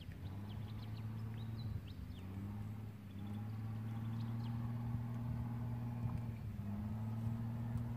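Engine running steadily in a low drone that shifts pitch slightly a few times, with short high bird-like chirps over it in the first three seconds.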